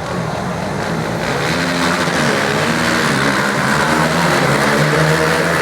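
Engines of dirt drag racing vehicles running hard on a heat, growing louder about a second in and staying loud.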